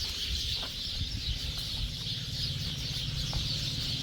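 A dense, unbroken chorus of many small birds chattering together in a tree, a flock gathering there to roost before sunset.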